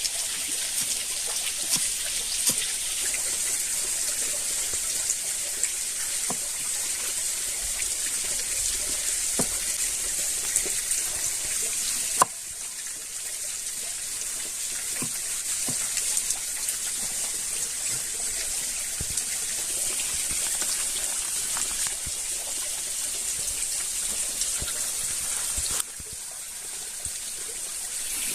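Water trickling and splashing, a steady hiss with scattered small clicks and knocks. The sound changes abruptly twice, about halfway through and near the end.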